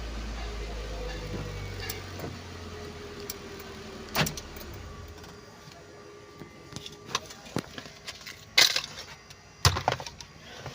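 Ford Lynx car engine idling just after being started by the aftermarket start system, then shutting off about five seconds in. Afterwards come several sharp clicks and rattles, like keys being handled.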